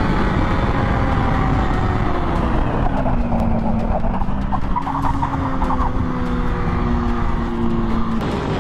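A vehicle engine running under heavy wind and road rumble. Its pitch drops about three seconds in, holds lower, then changes again near the end.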